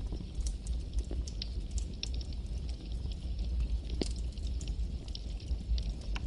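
Campfire burning: a steady low rumble and hiss of flames with irregular sharp crackles and pops from the wood, one louder pop about four seconds in.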